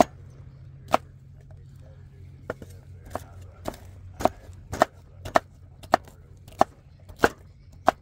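Chopping with a blade: sharp single strikes, a couple in the first seconds, then a steady rhythm of about one every 0.6 seconds, over a faint low rumble.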